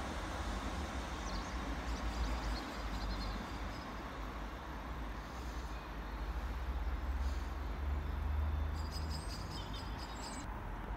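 Diesel multiple unit train running away into the distance, a steady low rumble, with faint high chirps over it now and then.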